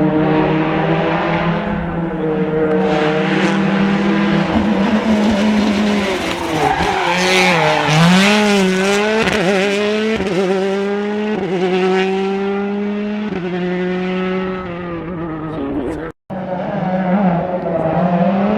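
Rally car engine at full load on a special stage, revs rising and falling through corners, then climbing in steps as it shifts up several gears. The sound cuts out abruptly for a moment near the end, then another engine comes in.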